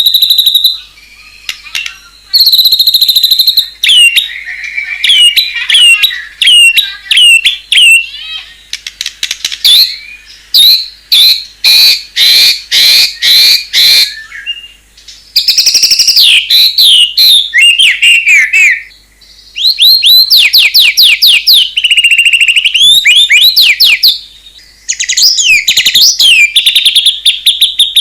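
White-rumped shama singing loudly, a varied song full of mimicked phrases from other birds: clear whistles, rapid runs of sharp repeated notes and fast trills, phrase after phrase with short pauses between.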